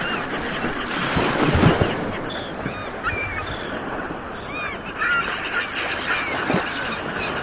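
Ocean surf rolling and washing onto the shore, with a wave breaking loudest about a second and a half in. Many short calls from birds over the water ring out through the surf.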